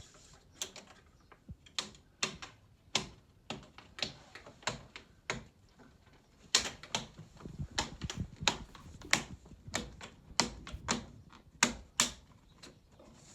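Irregular sharp clicks and knocks, about two or three a second, from parts and tools being handled while a stairlift is put back together. The knocks grow louder about halfway through.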